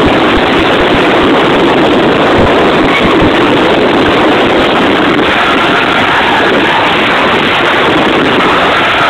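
Mazda RX-8's twin-rotor Wankel engine driven hard, heard loud and steady from inside the cabin together with the noise of the car moving at speed.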